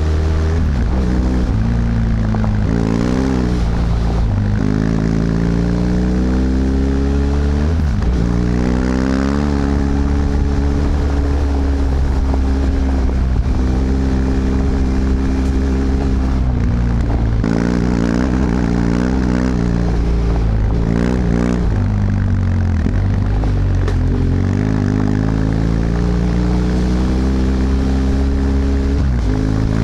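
BMW F 800 GS parallel-twin engine through its original exhaust, riding under way: the engine note climbs as it pulls and drops sharply at each gear change, several times over, with a steady rush of wind and road noise.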